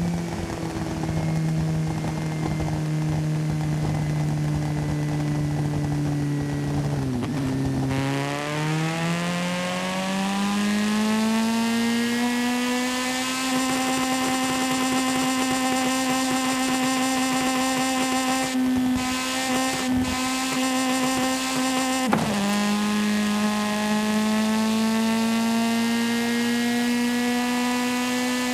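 A car engine in a driving video game, held at steady revs. About 8 seconds in it climbs over a few seconds to a higher steady pitch. A quick drop and recovery about 22 seconds in marks a gear change.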